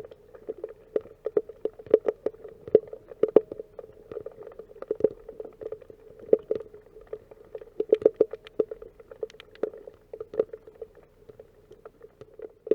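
Underwater sound picked up by a camera submerged in the sea: irregular, muffled clicks and knocks, several a second, with a ringing tone in the middle of the range.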